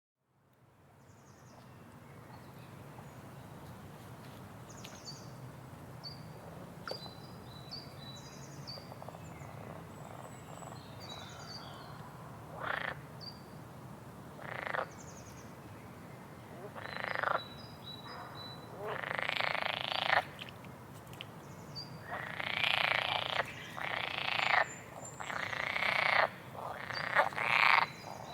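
Frogs croaking. The sound fades in from silence, and from about twelve seconds in the calls grow louder and come closer together, each lasting from a fraction of a second to over a second. Under the calls there is a low steady hum and faint short high chirps.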